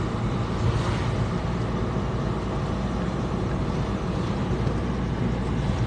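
Steady engine and road noise of a car driving, an even low rumble.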